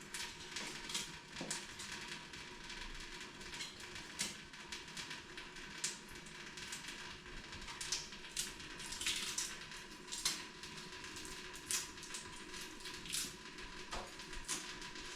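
Knife clicking and scraping irregularly as it peels the outer skin off a vegetable on a cutting surface, over a faint steady tone.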